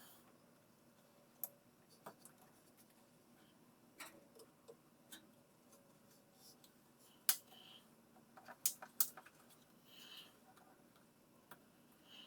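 Scattered light clicks and taps of tools and metal parts being handled during washing-machine assembly, with a sharper click about seven seconds in and a quick run of clicks just after eight seconds.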